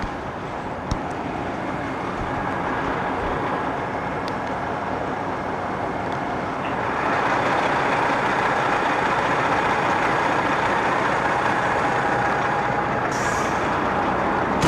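Heavy diesel vehicle engine running steadily, getting louder about seven seconds in, with a short high hiss near the end.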